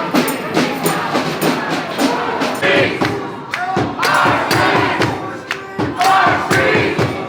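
Large crowd of protesters chanting and shouting together, many voices at once with no words standing out.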